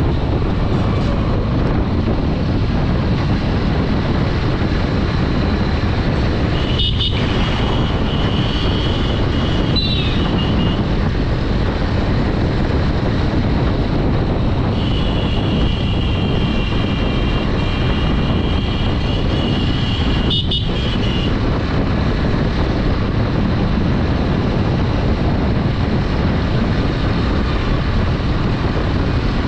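Honda Dream 110 motorcycle riding along a road, its small engine and wind noise making a steady loud rumble. Twice a long high-pitched horn-like tone sounds over it, once about seven seconds in for a few seconds, and again from about fifteen seconds in for some six seconds.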